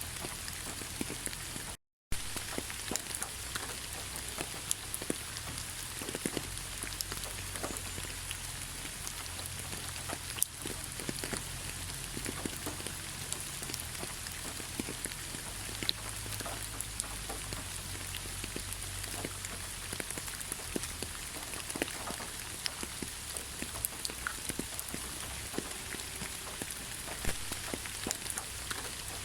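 Heavy rain falling steadily: a dense even hiss full of small individual drop ticks, with a low rumble underneath. About two seconds in, the sound cuts out for a moment and then resumes.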